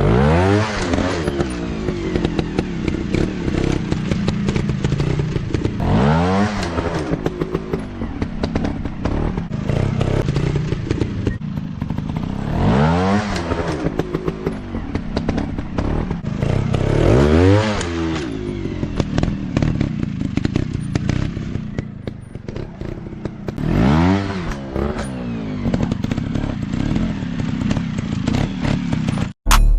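Motocross dirt bike engine running and revving hard in about five bursts several seconds apart, each rising quickly in pitch then falling back, with scattered knocks between.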